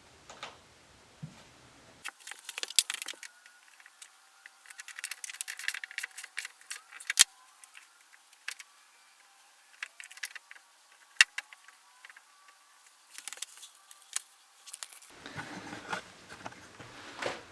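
Irregular metallic clicks and clinks from a socket wrench with a 17mm socket turning a threaded male plug into a pipe fitting.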